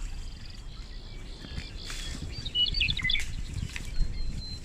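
Wild birds chirping: a quick cluster of short, high notes about halfway through, then a thin, steady high tone near the end, over a low rumble.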